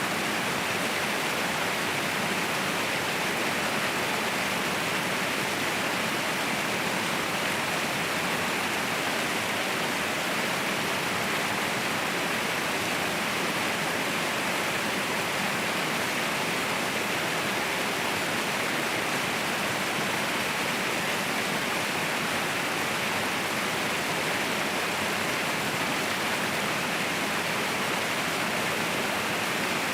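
A waterfall's steady, unbroken rush of water, more hiss than deep rumble.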